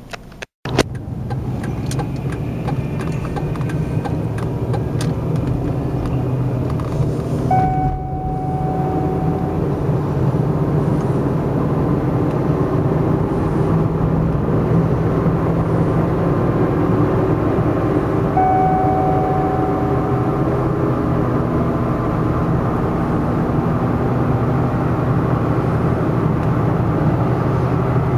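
Rebuilt Cadillac Northstar V8 running steadily after a brief dropout near the start. A short steady tone sounds now and then, about every ten seconds.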